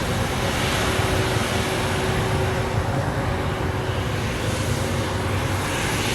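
Airbus A320's jet engines running steadily: a dense low rumble and hiss with a faint steady hum underneath.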